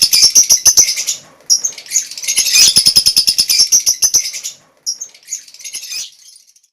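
A flock of budgerigars flapping their wings in flight, a rapid fluttering of about ten wingbeats a second mixed with high chirps, in two bursts with a short lull about a second in, then faint fluttering near the end.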